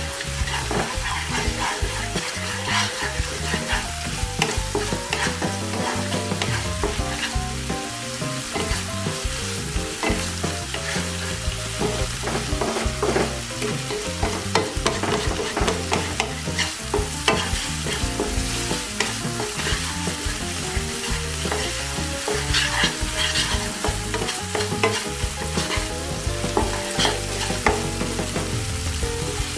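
Spice paste of onion, ginger and garlic sizzling in hot oil in a nonstick karai, with many small pops and crackles, while a spatula stirs it. This is the bhuna (koshano) stage, frying the masala until the oil separates from it.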